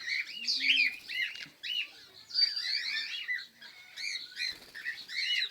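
A flock of cockatiels chirping and calling, many short overlapping calls.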